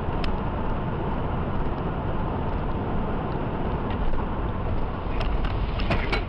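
Car on the move: steady road and engine noise, with a few short sharp clicks near the end.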